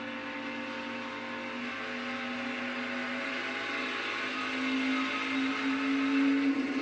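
NASCAR Craftsman Truck Series V8 race trucks running at full speed, a steady high engine drone that grows louder near the end as the trucks come closer.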